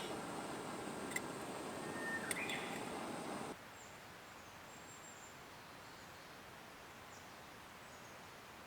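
A steady hiss with a couple of sharp clicks cuts off abruptly about three and a half seconds in. Quiet outdoor ambience follows, with a few faint, high bird chirps.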